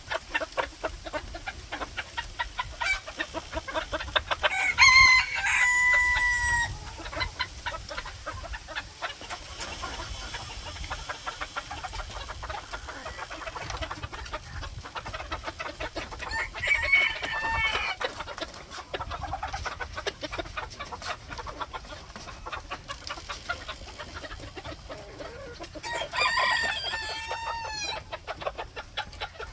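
Bantam Phoenix rooster crowing three times, about ten seconds apart. Each crow lasts about two seconds, and the first ends on a long held note. Short clucks come in between.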